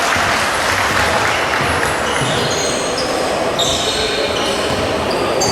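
Crowd noise and game sounds in an indoor arena during a basketball game, with a ball bouncing. From about halfway in there are short, high squeaks, which fit sneakers on the court.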